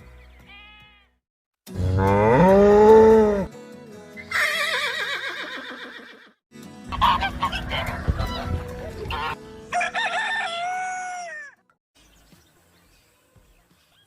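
Chickens calling: a rooster crowing and clucking, four loud calls in a row with short gaps between them.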